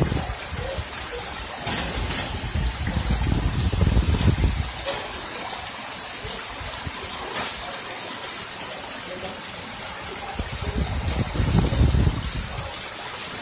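Heavy rainstorm: a steady hiss of downpour mixed with muddy runoff water rushing along the street. Gusts of wind buffet the microphone a few times, at the start, a couple of seconds in, and again near the end.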